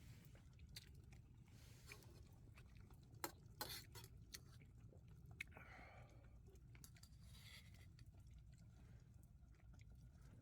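Faint chewing of food close to the microphone, with a few sharp clicks a few seconds in, over a low steady rumble.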